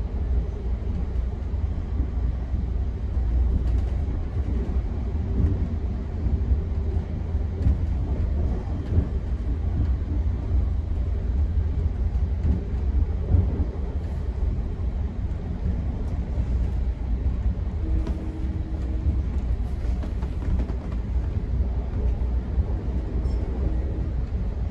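Steady low rumble of a GO Transit passenger train running between stations, wheels rolling on the rails, heard from inside the coach. A faint short tone sounds twice in the second half.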